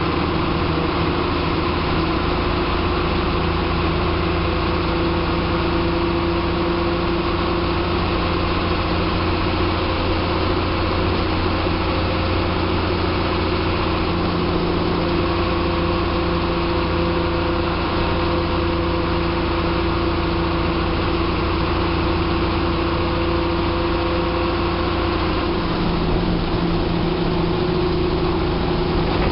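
Diesel engine of a TSRTC bus running steadily, heard from inside the driver's cabin as a constant drone.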